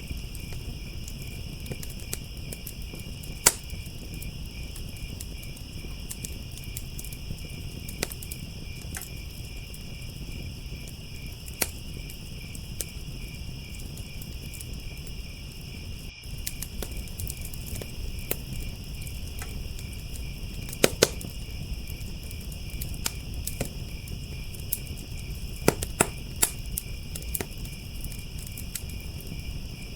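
Crickets chirping in a steady, finely pulsing chorus over a crackling wood fire. Scattered sharp pops, the loudest a few seconds in and a few more in the second half, with a low rumble underneath.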